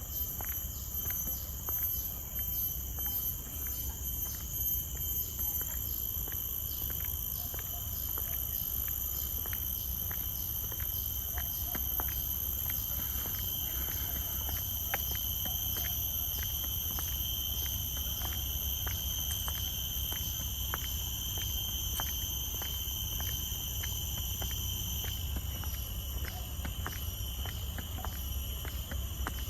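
Steady, high-pitched drone of insects in tropical forest, several tones held without a break, with regular footsteps on the path at about two a second.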